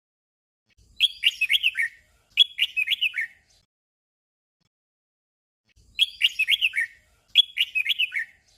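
Red-whiskered bulbul singing short, bubbly song phrases in doubled pairs: two phrases close together, a pause of about two and a half seconds, then two more.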